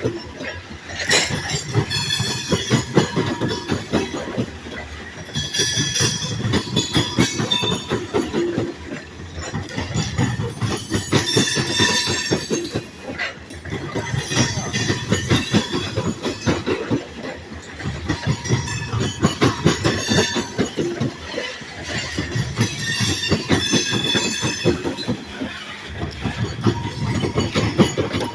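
Long freight train's cars rolling past, steel wheels clacking rapidly over the rail joints, with a high-pitched wheel squeal rising and fading every few seconds.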